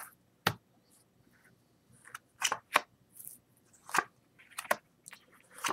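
Playing cards being turned over and slapped down onto a table one at a time: about six sharp snaps, unevenly spaced.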